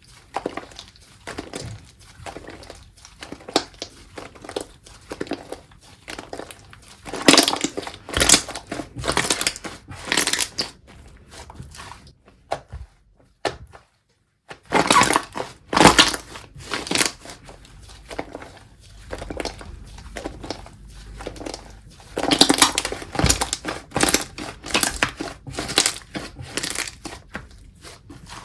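Slime being squished, pressed and stretched by hand, giving irregular clusters of sharp clicks and pops. The sound stops for about two seconds a little before the middle, then starts again.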